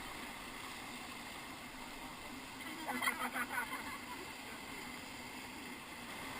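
Steady rushing of whitewater river current, with a short burst of voices about three seconds in.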